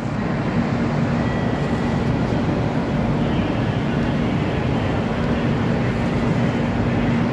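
Steady hum and hiss of an E2 series Shinkansen standing at the platform with its onboard equipment running, one low tone held throughout.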